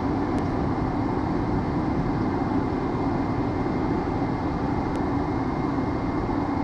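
Steady cockpit noise of a Hawker 800XP business jet in flight: airflow and the twin turbofan engines as one even roar, with a faint high steady tone running through it.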